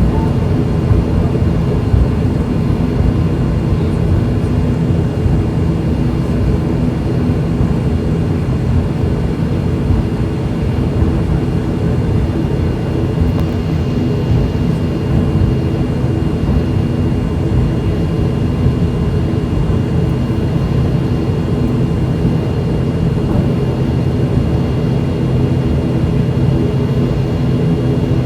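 Twin PW127 turboprop engines and propellers of an ATR 72-600 running at steady power on take-off: a loud, unchanging drone with a constant high whine above it.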